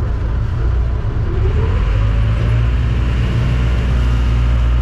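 A moving road vehicle's engine and road noise: a steady low rumble, with a faint pitch glide rising and falling about a second in.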